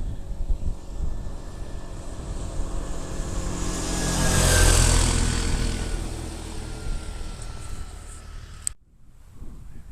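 A motor vehicle passing close by, growing louder to a peak about halfway through and then fading as its pitch drops. Near the end there is a click, and the sound cuts out briefly.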